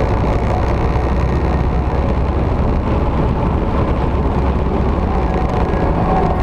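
Victory motorcycle's V-twin engine running steadily at road speed, with wind and road noise.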